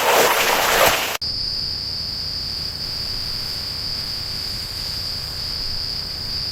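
A loud rush of noise for about a second, then an abrupt cut to a steady, unbroken high-pitched insect trill, typical of crickets.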